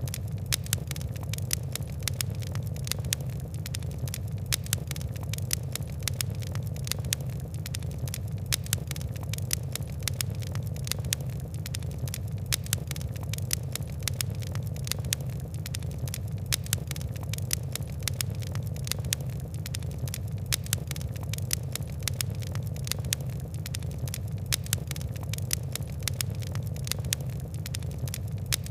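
Wood and coal fire crackling: a dense, continuous run of sharp snaps and pops over a steady low rumble of burning.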